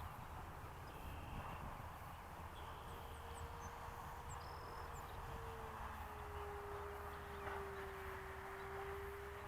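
Faint whine of the Flyzone Cessna Corvalis RC plane's electric motor and propeller flying past: one steady tone that drops in pitch about six seconds in. A steady background hiss runs under it, with a few faint high bird chirps.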